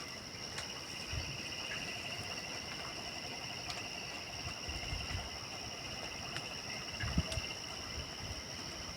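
Night chorus of crickets: a steady trilling at two pitches, one high and one higher, with a few faint clicks and soft low thumps under it.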